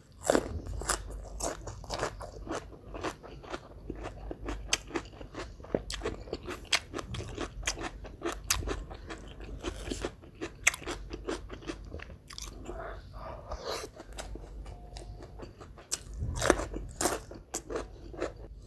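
A person chewing crisp fried catfish with its lalapan vegetables: many irregular crunches and bites in quick succession, with a louder cluster of crunches near the end.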